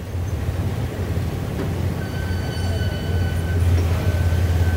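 Train running over a trestle viaduct, heard from an open carriage window: a steady low rumble, with a thin high-pitched wheel squeal joining about two seconds in.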